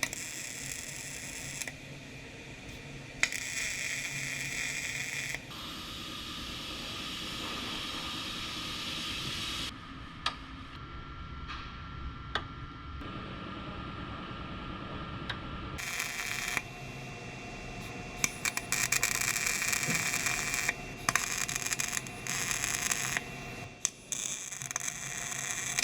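A string of short, cut-together shop-tool sounds on sheet-metal car-body panels: steady hissing and scraping noise with sharp clicks, changing abruptly every few seconds, and a busier crackling stretch in the last third.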